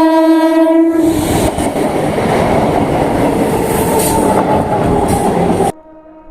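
An EMU electric local train's horn sounds one steady, continuous note and stops about a second in. The train then rushes through at speed with loud wheel and rail clatter and wind noise. The sound cuts off abruptly near the end, leaving only a faint horn tone.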